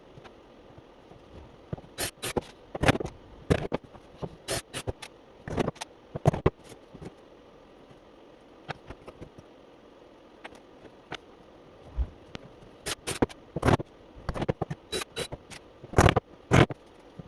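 Wooden beehive frame parts clicking, knocking and scraping as they are handled and fitted together, in irregular clusters of sharp knocks with quiet stretches between.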